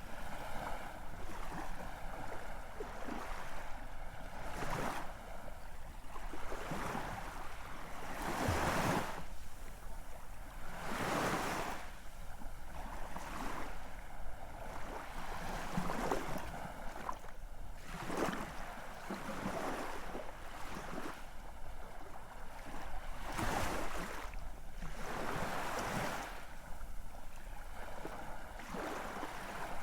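Ocean waves breaking and washing in, with a new surge of surf every two to three seconds.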